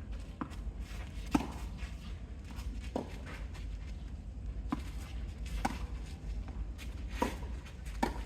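A rally in a doubles game: a ball or shuttlecock is struck back and forth, about six sharp hits coming a second or a second and a half apart, with footsteps on the court.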